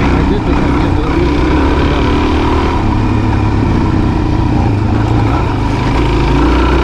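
Adventure motorcycle engine running steadily under way on a dirt trail, its note shifting a little with the throttle.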